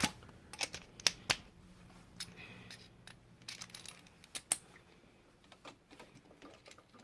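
Irregular small clicks and light knocks of hands handling an electrical receptacle, its wires and tools, with most of them in the first few seconds and fewer near the end.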